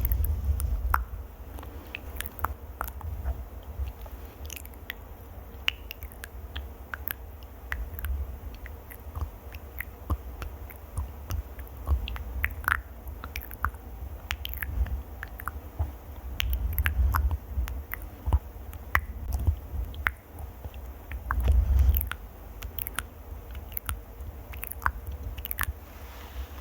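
Close-microphone ASMR trigger sounds: a dense, irregular patter of crisp clicks and crackles with low rumbling thumps now and then, the strongest a little after twenty seconds in.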